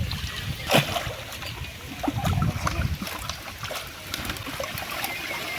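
Pond water splashing and dripping as a fishing net is worked, with a sharp knock about a second in and some low handling thumps.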